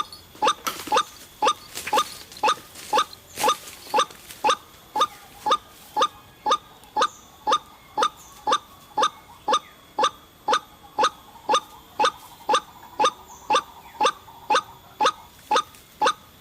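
White-breasted waterhen (ruak-ruak) giving its repeated 'ruak' call: short pitched calls about two a second, evenly spaced and unbroken.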